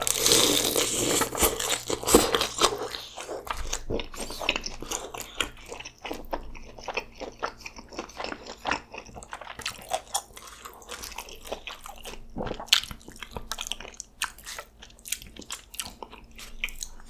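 A big crunchy bite into a crisp-fried birria taco, close to the microphone, followed by steady wet chewing with many small crunches and mouth clicks.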